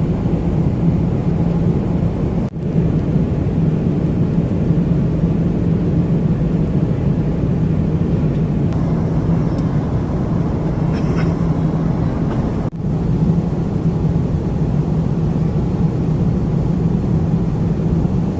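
Steady cabin noise of an Airbus A330-300 airliner in cruise: an even rush of engine and airflow noise over a low hum, broken by two brief dips where the recording is cut.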